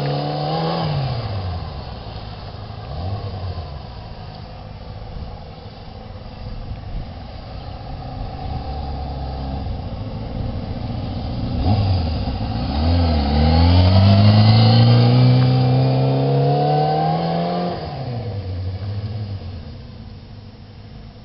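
Kawasaki Ninja ZX-6E sport bike's inline-four engine as it is ridden: the revs drop away right at the start and it runs low for several seconds, then it accelerates with a long rising pitch from about halfway through, backs off near the end and fades.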